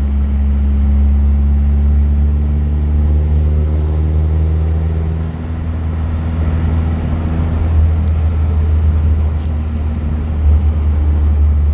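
Classic car's engine and road rumble heard from inside the cabin while driving, a steady low drone that eases off briefly about five seconds in and then pulls again.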